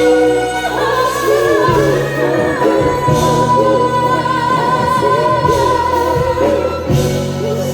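Live R&B ballad: a singer ad-libbing without clear words over the band, holding one long note from about two and a half seconds in until near the end.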